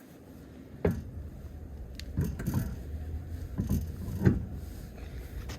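A few scattered knocks and clunks over a low steady rumble, the loudest knock about four seconds in.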